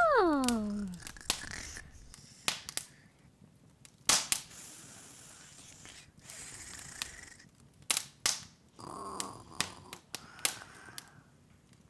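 Open fire crackling, with irregular sharp pops and snaps over a faint hiss that swells and fades. Near the start a cartoon character's voice says a falling "oh".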